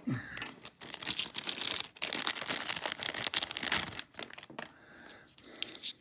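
Plastic packaging crinkling and rustling as toy track pieces are handled and pulled free, a dense crackle for about four seconds that then thins to a few light clicks.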